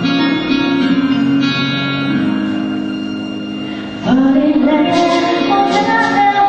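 Live band music: a guitar intro of held chords, then about four seconds in the music gets louder as a singing voice comes in over the band, with cymbal strokes.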